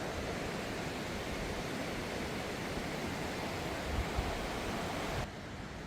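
Steady rushing of a flood-swollen river, a continuous hiss-and-roar of fast water, with a couple of faint low thumps about four seconds in; the upper part of the noise drops away abruptly near the end.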